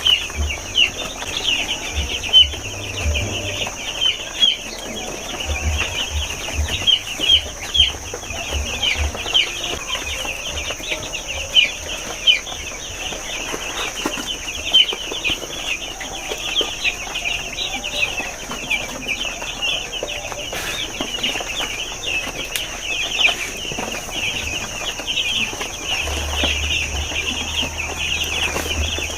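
A flock of six-day-old broiler chicks peeping continuously, many short high cheeps overlapping without a break.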